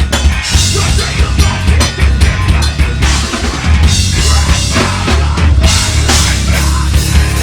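A heavy metal band playing live: loud, dense drumming with bass drum and cymbals over distorted guitars and heavy bass.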